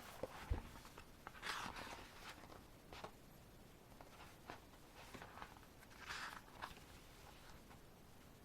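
Quiet handling of an album photobook: two soft page-turn swishes, about one and a half seconds in and again about six seconds in, among light taps and clicks of paper.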